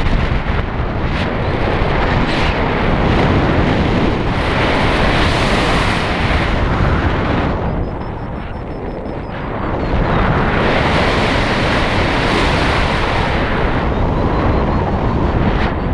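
Loud wind rushing and buffeting over the microphone in flight, easing for a couple of seconds about eight seconds in before picking up again.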